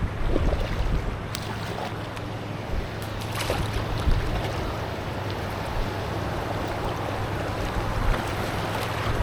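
River water running with wind buffeting the microphone, and a few faint knocks.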